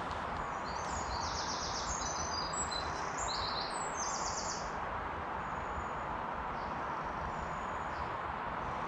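A small songbird singing rapid, high trilled phrases through the first half, over a steady, even rush of flowing river water.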